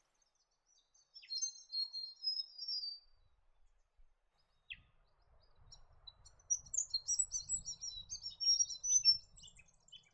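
Grey fantail singing: a short, high, thin twittering phrase, then after a pause a longer run of high, sweet twittering notes.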